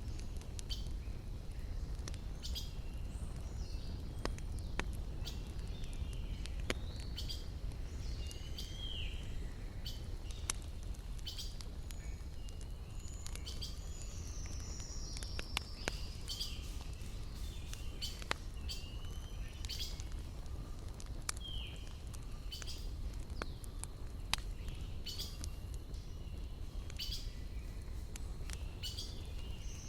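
Wood fire crackling, with sharp irregular pops over a steady low rumble. Small birds chirp and give descending whistled calls in the background.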